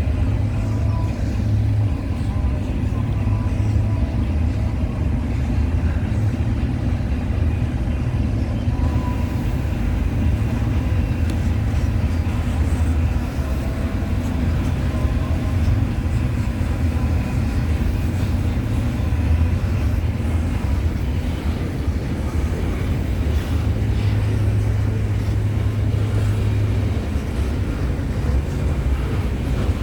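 Freight train cars rolling past at speed: a steady, loud low rumble of wheels on rail, with faint steady squealing tones above it.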